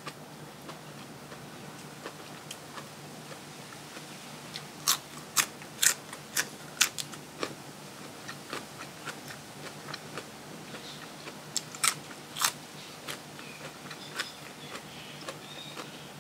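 Close-miked crunching as a person bites and chews crisp food, in sharp crisp crunches: a run of loud ones about five to seven seconds in and two more near twelve seconds, with quieter chewing between.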